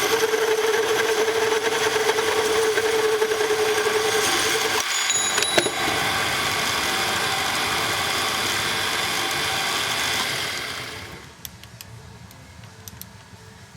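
A power tool running as a ring is cut off a metal repair bushing blank: a loud, steady running noise with a strong whine for the first half, a brief dip about five seconds in, then it runs on and winds down near the end, leaving a few faint clicks.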